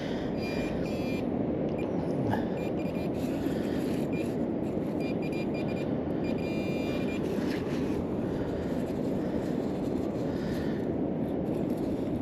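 Metal detector giving short, repeated beeping tones, one held longer near the middle, as the search coil is swept over the ground, over a steady rush of strong wind.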